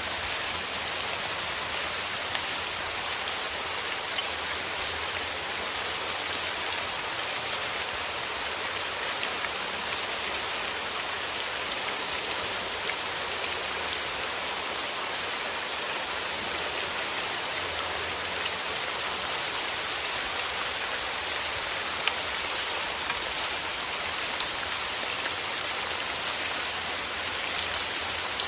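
Steady rain with drops pattering on a surface, many small individual drop ticks over an even hiss.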